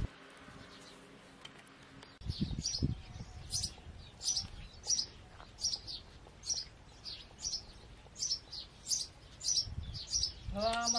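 A small bird chirping over and over, a short falling chirp about every half second, starting about two seconds in. A couple of low thumps come just before the chirping starts.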